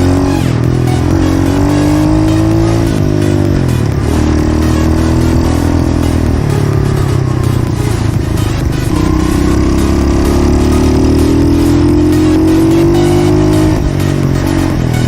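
Pit bike engine under way, revving up and easing off. Its pitch climbs for a couple of seconds and drops back about three seconds in, then climbs for a longer stretch in the second half before falling away again near the end.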